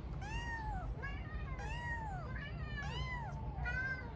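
A kitten meowing repeatedly: about five short, high-pitched meows, each rising and then falling in pitch.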